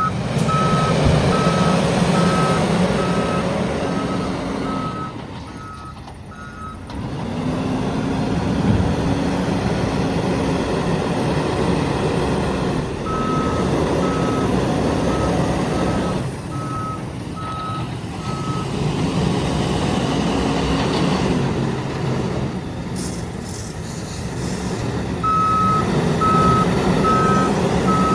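Diesel loader's engine running and revving up and down under work, with its reversing alarm beeping steadily in three spells as it backs up.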